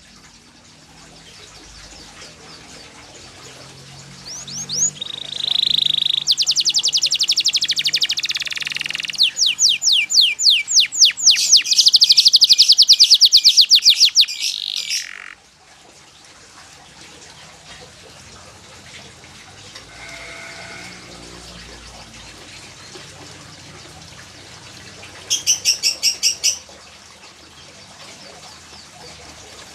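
Domestic canary singing: fast trills of rapidly repeated high notes, loud for about ten seconds, then a pause and a short trill near the end.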